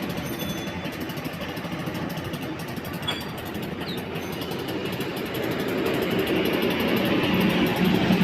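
Aprilia SR 150 scooter engine running after its gearbox repair, steady at first and getting louder over the last couple of seconds.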